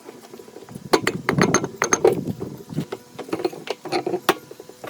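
Irregular mechanical clicks and clanks of hand work on metal parts, a quick run of them in the first half and sparser later.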